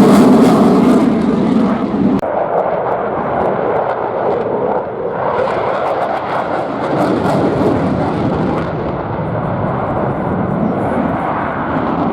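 A Eurofighter Typhoon's twin EJ200 jet engines in flight, a loud rushing noise that is strongest in the first two seconds, then steadier and a little fainter.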